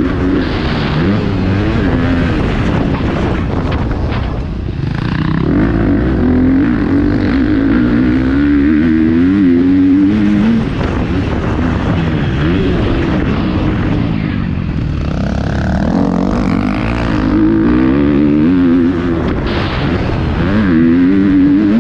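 Motocross bike engine heard on board, revving up and falling back over and over as the rider works the throttle and gears around the track, over a steady rush of noise.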